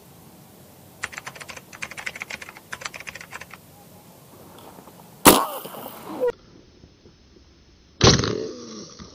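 A run of rapid clicking lasts about two and a half seconds. Then come two sharp shots about three seconds apart, each with a brief ringing tail, from an air rifle firing a line-tethered fishing dart.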